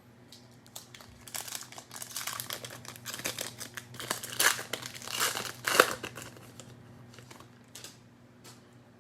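Plastic cello-pack wrapper of trading cards being torn open and crinkled, starting about a second in and loudest past the middle, with a few light ticks near the end.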